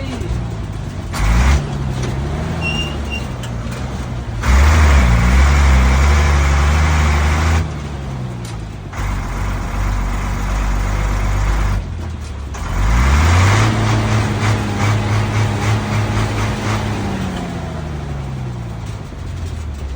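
Ashok Leyland truck's diesel engine running under way, its pitch rising and falling several times as it accelerates and eases off, with sudden changes in level between stretches.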